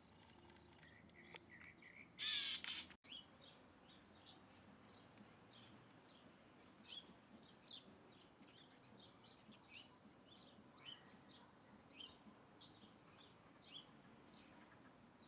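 Birds chirping faintly: many short, high chirps, several a second. About two seconds in, a louder, harsh, noisy call lasts under a second and breaks off abruptly.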